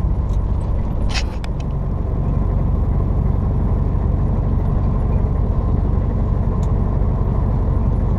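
Semi-truck cab interior: the engine and road noise make a steady low drone while driving. A brief sharp noise comes about a second in.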